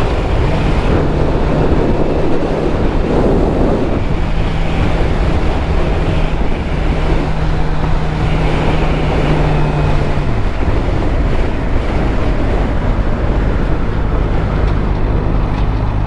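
2013 Suzuki GSX-R600's inline-four engine running at steady speed under heavy wind rush on a helmet microphone; about ten seconds in the engine note drops as the throttle eases off.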